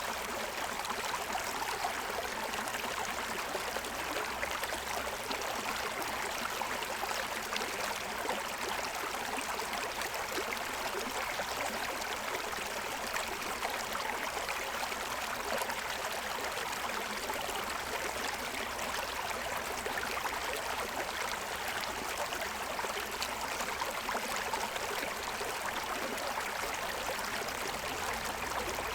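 Forest stream running over the stones of its bed: a steady, even rush and babble of water.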